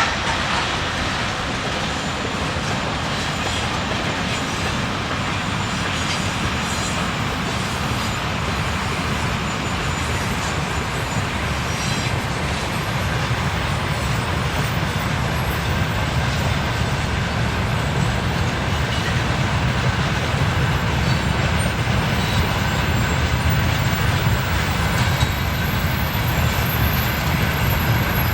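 Freight train rolling past, a steady rumble of wagons on the rails that grows a little louder near the end.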